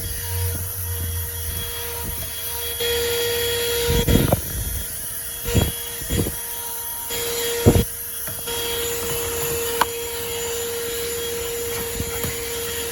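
WORX cordless handheld car vacuum running with a steady motor whine over the hiss of its suction, not loud at all. Several short knocks come in the first eight seconds.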